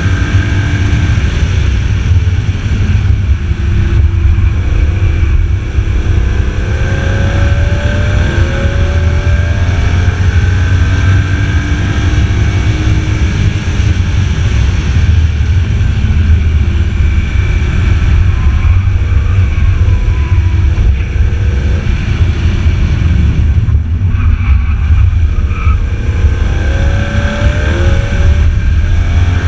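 BMW Z4 M Roadster's 3.2-litre straight-six driven hard on track, its pitch climbing and dropping again and again as it accelerates, shifts and slows for corners, over a heavy low rumble.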